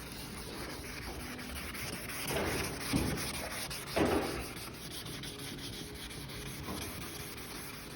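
Sandpaper rubbing back and forth on a plastic car headlight lens, sanding off the clouded surface. It swells louder twice, about two and a half and four seconds in.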